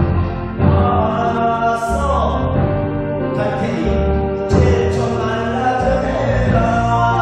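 A song: a voice singing a melody over an instrumental backing track with a steady bass.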